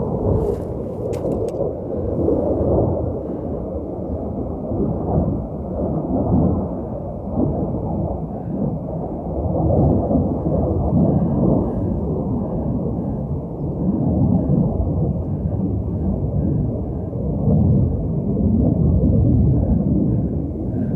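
Fighter jet's engines heard from a distance as a deep, continuous rumble that swells and fades, growing louder near the end.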